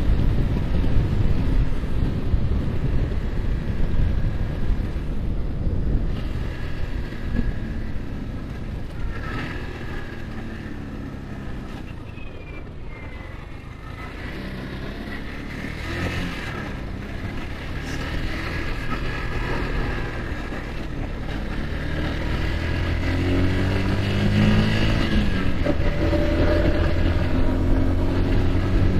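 Yamaha R15's single-cylinder engine and wind rush on the move. Wind noise dominates at first and eases around the middle. The engine note then comes forward and rises in pitch several times toward the end as the bike accelerates.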